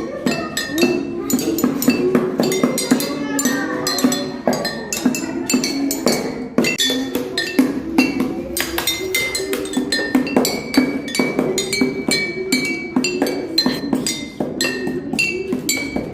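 Music of rapid clinking strikes, several a second, each ringing briefly at a clear pitch, over a steady lower melody line.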